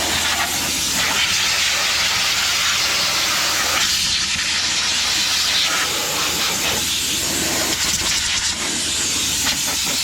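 Compressed air blowing from an air hose nozzle, a steady loud hiss that cuts off near the end.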